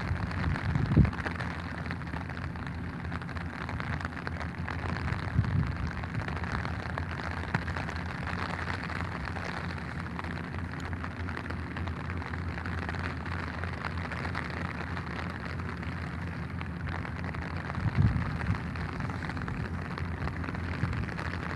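Steady rain pattering on an umbrella held overhead, with a few short low thumps, the loudest about a second in and again near the end.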